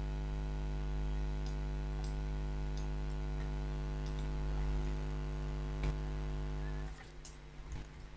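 Steady electrical mains hum with a few faint computer mouse clicks, one more distinct click a little before six seconds in; the hum drops away about seven seconds in.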